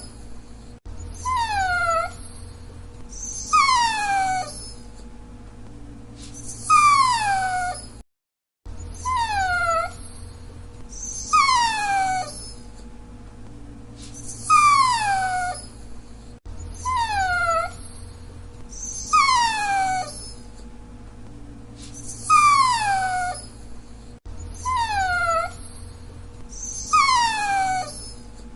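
Dachshund whining: a string of high-pitched, falling whines, about one every two to three seconds, with a brief break about eight seconds in.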